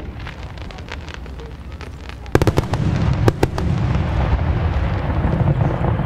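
Fireworks going off, with a few scattered sharp cracks. About two and a half seconds in comes a cluster of loud bangs, followed by a dense run of crackling.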